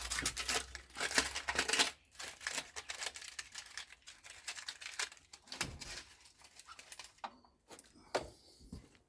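Crackly tearing and rustling of material being handled and pulled apart, densest in the first two seconds, then sparser scrapes and clicks.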